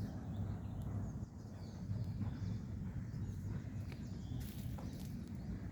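Outdoor ambience: a steady low rumble with faint, scattered bird calls.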